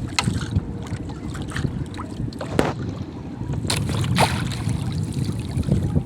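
Wind rumbling on the microphone aboard a small fishing boat, with a few sharp knocks at irregular moments.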